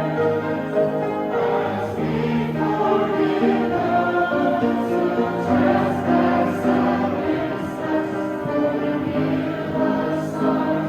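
Choir singing in several voices, with long held notes.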